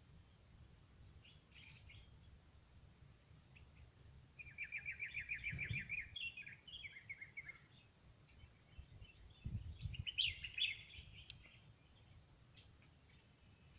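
Songbirds singing: about four seconds in, a rapid trill of evenly repeated notes runs for nearly two seconds, followed by a few more phrases. Another burst of song comes around ten seconds, with scattered faint chirps between. Two low thumps are heard during the louder song.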